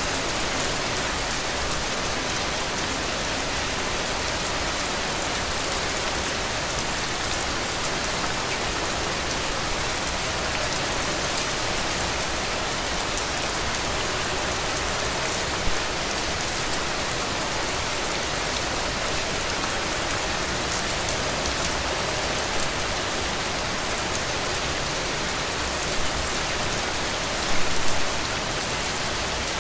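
Heavy rain falling steadily in a dense, even hiss. A few brief louder hits stand out about halfway through, and a short cluster of them comes near the end.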